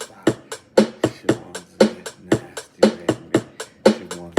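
Hip-hop backing beat with no rapping over it: sharp drum hits, strong ones about twice a second with lighter ones between, and short pitched bass notes.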